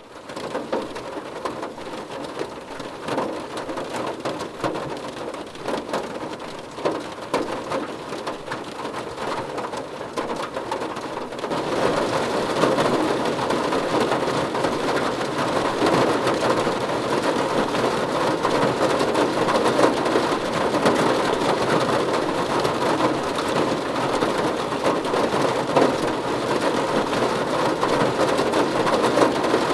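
Rain falling steadily, with separate drops audible at first. About a third of the way in it suddenly becomes louder and denser, like a heavier downpour.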